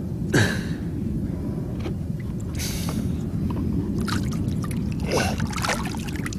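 Wind rumbling on the microphone, with a few short splashes and sloshes of shallow water: about half a second in, near three seconds, and a cluster around four to six seconds.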